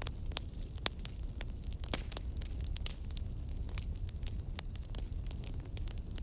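Wood fire burning in a fireplace: sharp, irregular crackles and pops over a steady low rumble of the flames.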